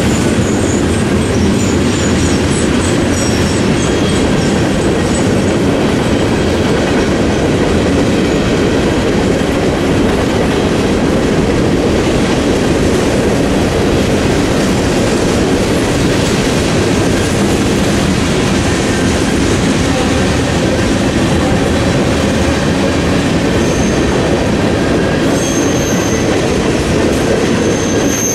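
Freight cars of a long mixed freight train rolling past close by: a steady heavy rumble and clatter of steel wheels on the rails. Thin high wheel squeals come through in the first few seconds and again near the end.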